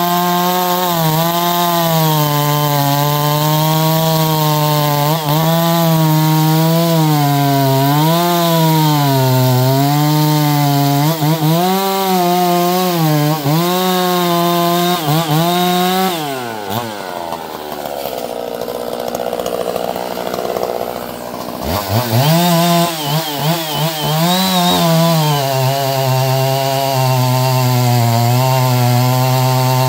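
Chainsaw running at high revs, its pitch wavering up and down as it cuts through wood. About halfway through the revs drop away and it runs lower and quieter for about five seconds, then it revs back up and carries on cutting.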